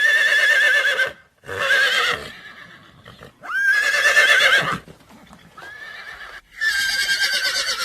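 Horse whinnying four times, each call a high quavering whinny about a second long.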